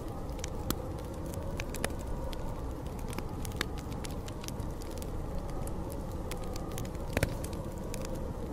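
Wood fire crackling, with irregular sharp pops and snaps, over a steady low rush of snowstorm wind. One louder pop comes about seven seconds in.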